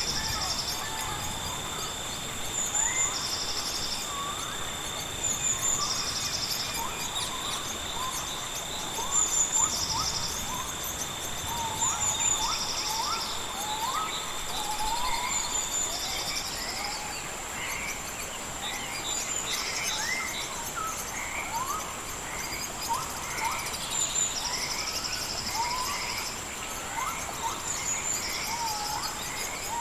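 Layered rainforest ambience: a steady high insect drone and a pulsing insect chirp repeating about every two seconds, with many short rising whistled bird calls over a soft even hiss. A second, lower insect drone stops about halfway through.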